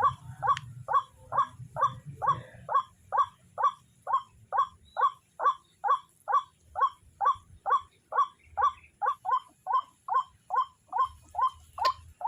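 White-breasted waterhen (ruak-ruak) call: one short, hoarse note repeated over and over at a steady pace of about two a second.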